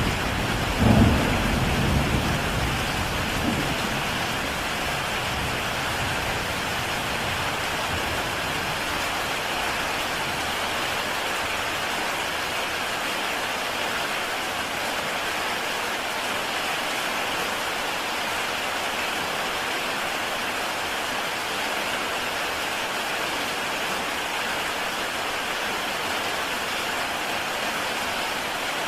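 Heavy rain falling steadily on a tile roof. A rumble of thunder, loudest about a second in, dies away over the first few seconds.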